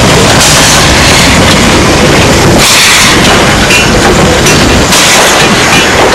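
A small heritage-railway train running close by: a loud, steady, unbroken rumbling noise.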